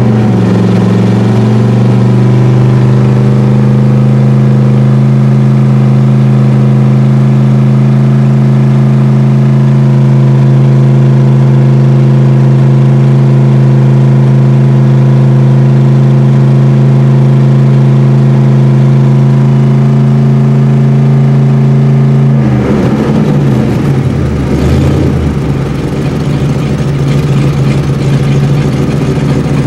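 1955 Chrysler Hemi V8 heard from inside the car while driving, holding one steady engine note for about twenty seconds. Then the note falls and turns rough and uneven, and it settles lower near the end.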